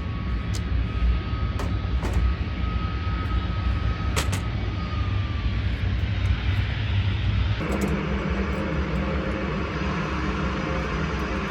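Aircraft engine running with a steady low rumble and a thin high whine that slides down slightly and fades about five seconds in. The sound changes abruptly about two-thirds of the way through.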